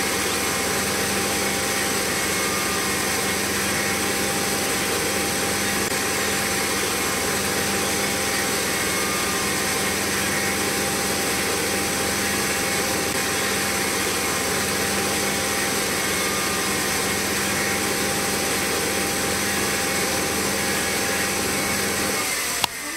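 A motor running steadily with a constant whine over a broad hum. It cuts off abruptly near the end, and music begins.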